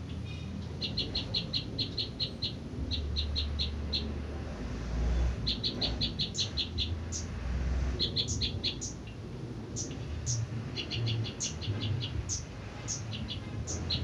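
Small songbird calling: quick runs of high, short chirps, about seven a second, repeated every couple of seconds, with single sharp higher notes in between, over a low rumble.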